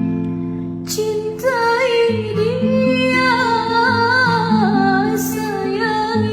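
Acoustic guitar strumming chords, with a high singing voice coming in about a second and a half in and holding long, wavering notes.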